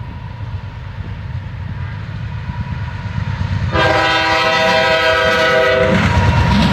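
Approaching CSX freight train's diesel locomotive rumbling, growing steadily louder; a little over halfway through its multi-tone air horn sounds one blast of about two seconds, then stops, leaving a louder rumble.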